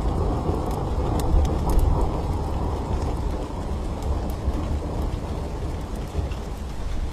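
Low rolling thunder rumble over steady rain, loudest about one to two seconds in, with sparse sharp crackles from a wood fire.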